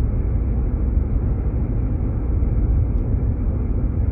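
Jeep Grand Cherokee driving, heard from inside the cabin: a steady low rumble of engine and road noise.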